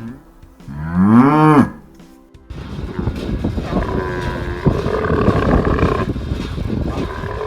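A cow moos once about a second in, the call rising and then falling in pitch. About two and a half seconds in, a different, busier, noisy background sound starts abruptly and carries on, with some steady tones in it.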